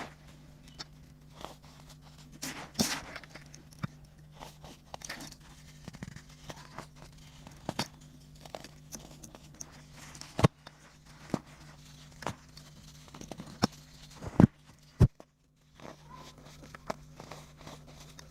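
Dried baking soda chunks crumbling and crunching: a steady stream of irregular dry crackles and snaps, with a few louder sharp cracks in the second half. A faint steady hum runs underneath.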